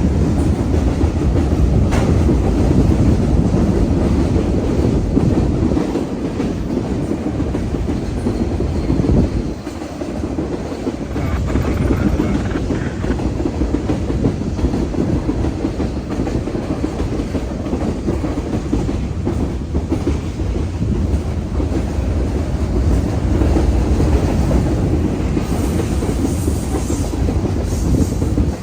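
A train rolling past close by, its wheels clacking over the rail joints in a steady, loud rumble that lasts the whole time.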